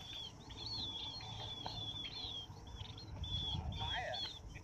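Small birds chirping continuously, many short high calls overlapping one another, with a lower, falling call about three and a half seconds in. Wind rumbles on the microphone underneath.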